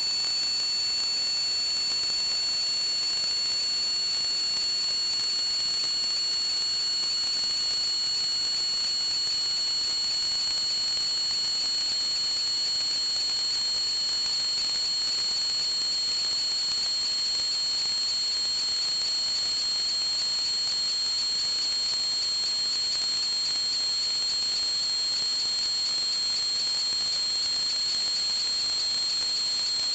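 A steady, high-pitched whistling over a hiss, made of several tones at once. One of the tones slowly rises in pitch.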